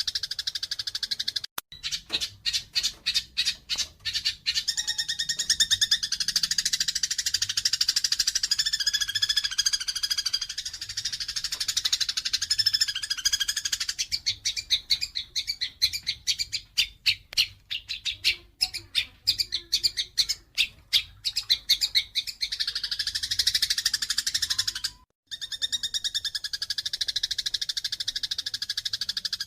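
Eurasian tree sparrows giving excited, aggressive fighting chatter: a dense run of high chirps, breaking into rapid strings of separate chirps early on and again in the middle. There are two very brief drop-outs, about one and a half seconds in and near 25 seconds.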